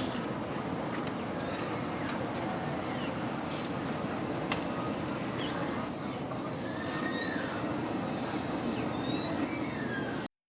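Many small birds chirping: a quick scatter of short, falling high chirps over a steady rushing background noise.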